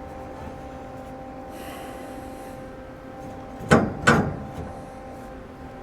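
Two quick tack welds, short sharp crackling bursts about half a second apart, close to four seconds in, fixing an EMT conduit brace in place.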